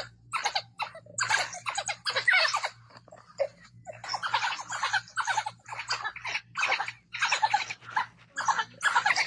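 A rapid series of short animal calls, one after another, over a faint steady low hum.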